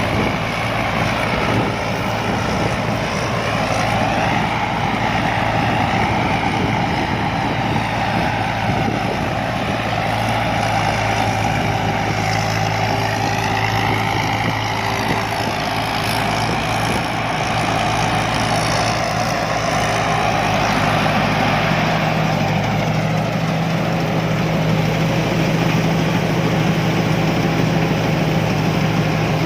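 Rice combine harvester's engine and machinery running steadily, with a low engine hum and higher tones that waver slowly.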